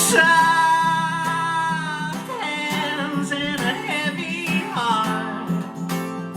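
Acoustic guitar with a man's voice singing long, wordless held notes that bend and waver, giving way to strummed guitar chords near the end.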